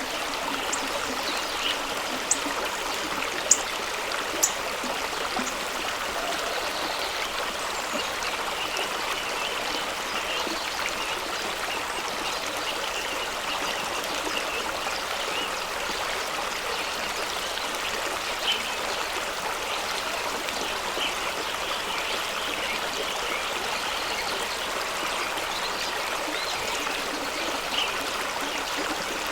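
Fast-running waterfall stream rushing over rocks: a steady, even rush of water with bright splashing. A few brief sharp clicks stand out about two to four and a half seconds in, and once more near the middle.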